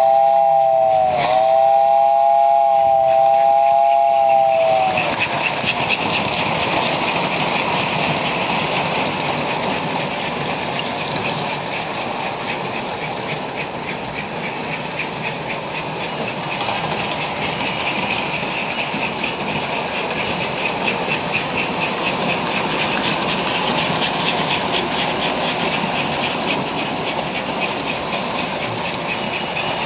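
American Flyer toy steam locomotive blowing its whistle, a short blast and then a longer one of about four seconds, then running with a steady rhythmic hissing chuff from its sound unit.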